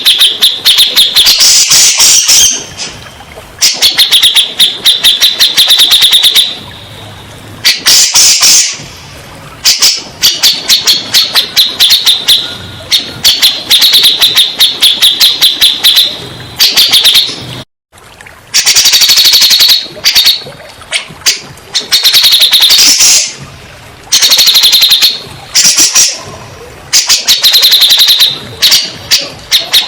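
Cak jenggot song: loud, fast trills of rapidly repeated high notes in phrases of one to three seconds with short pauses between them, played as a lure (pancingan) recording to set a silent or stressed cak jenggot singing. The sound drops out completely for a moment about eighteen seconds in.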